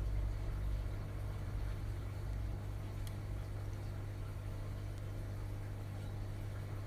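Front-loading washing machine running with a steady low hum and rumble. The rumble is heaviest in the first second.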